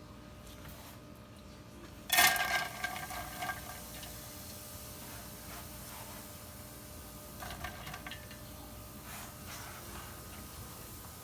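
A sharp metallic clank against a cooking pot about two seconds in, ringing briefly, after which hot oil in the pot sizzles steadily. Lighter clinks of a utensil on the pot follow twice later.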